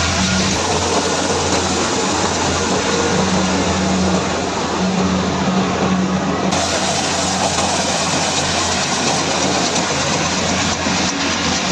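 Kubota combine harvester running steadily as it cuts and threshes rice: a low steady engine drone under a dense rushing hiss of machinery.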